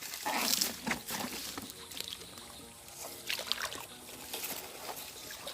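Someone wading through shallow water, with irregular splashing and sloshing at each step.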